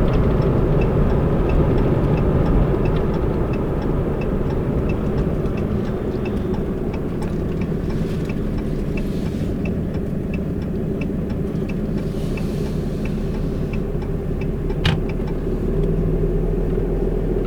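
Steady engine and road rumble heard from inside a moving vehicle, with a faint regular ticking about twice a second and one sharp click near the end.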